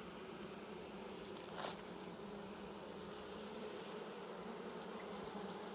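Honey bees on an open hive frame buzzing, a steady hum of many wings. A short hiss of noise about a second and a half in.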